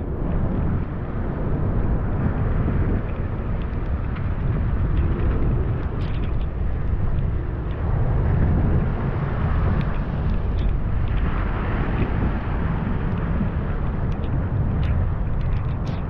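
Steady rain falling: a dense, even noise with a deep rumble, dotted with occasional sharper taps of single drops.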